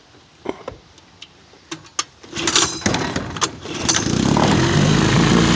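1953 Elgin 5.5 hp two-cylinder two-stroke outboard motor being pull-started: a few clicks from handling the motor, then an uneven sputter as it is cranked, and about four seconds in it catches and runs steadily.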